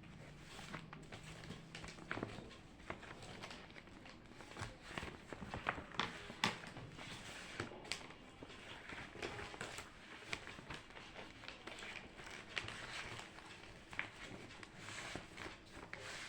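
Faint, irregular light taps, clicks and rustles, the small handling sounds of someone studying at a desk.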